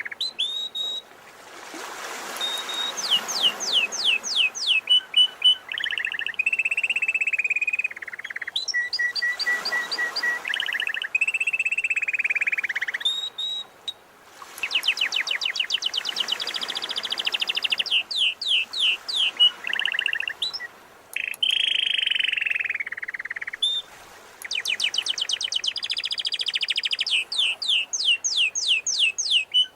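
Domestic canary singing continuously in fast trills, rapid repeated notes and rolled tones. Sea surf washes in twice, around the second and tenth seconds.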